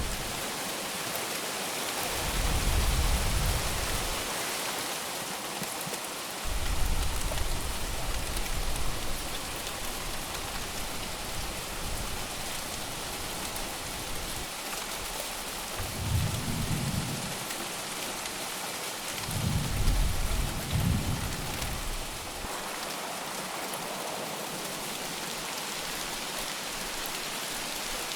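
Heavy rain falling steadily, with four low rumbles of thunder swelling and fading, the last one near the end of the second third.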